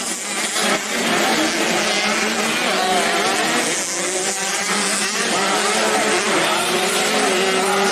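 Several 85cc motocross bike engines racing at once, each revving up and easing off so that their pitches rise and fall over one another.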